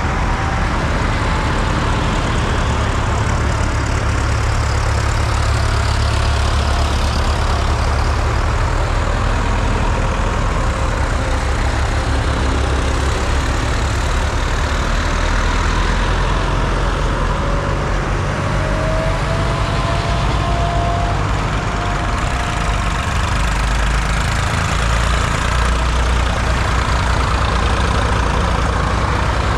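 Vintage diesel tractor engines running steadily with a deep, constant rumble.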